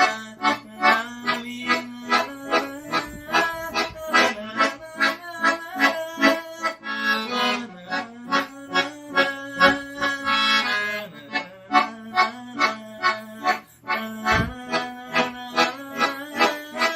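Accordion playing a forró tune in A major: quick, short repeated right-hand notes over steady bass and chords, with a couple of longer held notes about halfway through.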